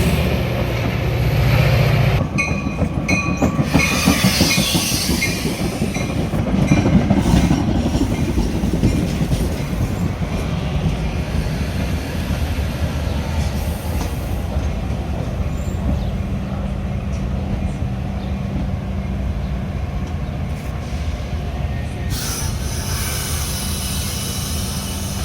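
Metra commuter train rolling on the rails, a steady low rumble of wheels and car. About two to six seconds in come short repeated high squeals from the wheels, and a higher hiss sets in near the end.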